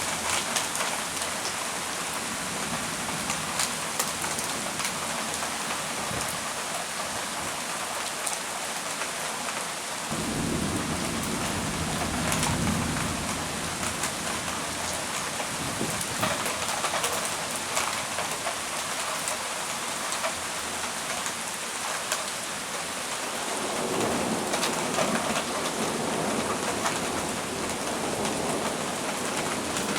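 Heavy thunderstorm rain pouring steadily, with many small drop impacts, and thunder rumbling low twice, about a third of the way in and again near the end.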